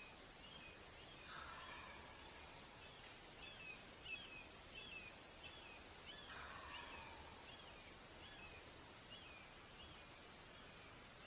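A distant wild turkey gobbler gobbling twice, about five seconds apart, faint over a small bird that repeats a short, high, curling note about twice a second.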